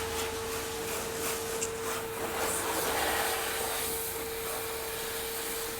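A steady machine whine holding one unchanging pitch, over an even hissing noise.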